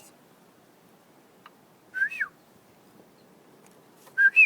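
A person whistling a short call to the birds: a held note that jumps higher and then slides down, repeated about every two seconds.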